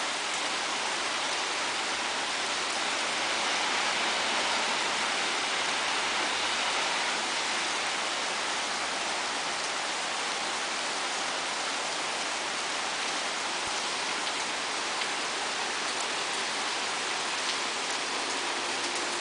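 Steady rain falling, an even hiss that swells slightly a few seconds in.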